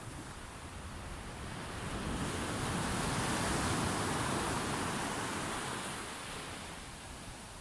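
Sea waves breaking and washing in: one wave swells up about two seconds in and dies away before the end, with a low rumble of wind on the microphone.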